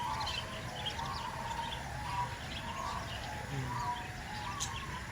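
Aviary birds calling together: a short call repeated about twice a second, with higher chirps scattered over it.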